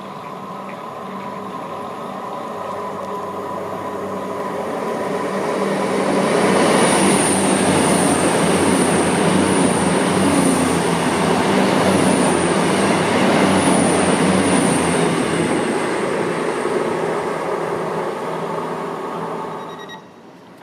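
A train running through the station: wheel-on-rail noise with a steady high whine and a low hum, building to its loudest about a third of the way in, then fading away until it cuts off shortly before the end.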